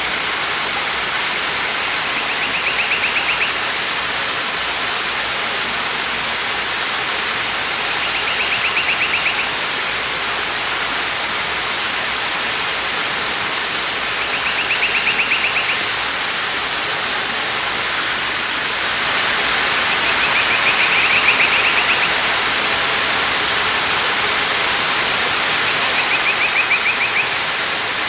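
Waterfall's steady rush of falling water, growing a little louder about two-thirds of the way through. A bird's rapid trill sounds over it five times, about six seconds apart, each lasting a second or so.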